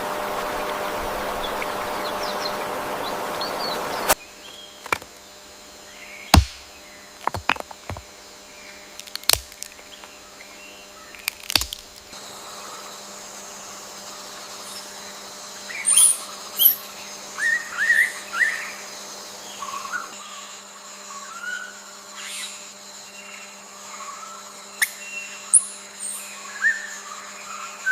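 Rushing water stops abruptly about four seconds in, giving way to quieter forest ambience. Several sharp clicks follow, then from about the middle on, short, high, rising and falling bird chirps, over a faint steady hum.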